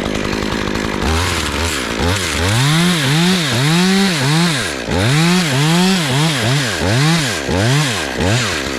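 Two-stroke chainsaw idling, then revved from about a second in and cutting through oak wood, its engine pitch rising and falling repeatedly, about twice a second. This is the cut that follows a conventional notch, felling a top piece from up in the tree.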